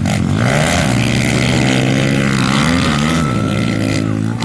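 Small pit bike engines being ridden hard, revving up and down with the pitch rising and falling several times, then holding steadier near the end.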